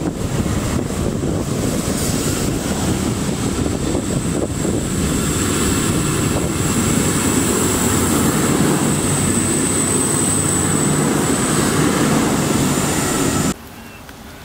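V/Line VLocity diesel multiple unit passing close by, its diesel engines running and wheels on the rails, with a thin steady high whine over it. The sound cuts off abruptly near the end.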